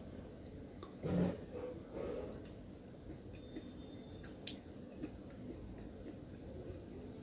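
Close-up mouth sounds of someone chewing crumbly, chalk-like nakumat. A louder crunchy chew comes about a second in and a softer one about a second after, then quieter chewing with small clicks.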